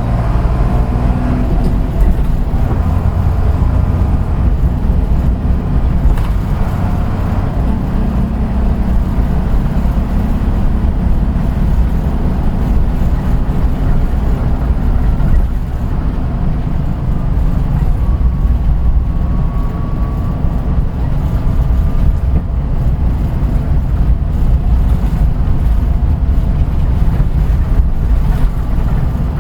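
Kojaku Kotsu route bus No. 634 under way: a steady engine drone and rumble of running noise. The engine note shifts about seven seconds in.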